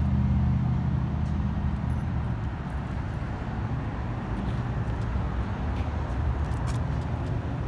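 2011 Audi A6 sedan's engine idling, a steady low hum that drops in level about two seconds in. A few light clicks come near the end.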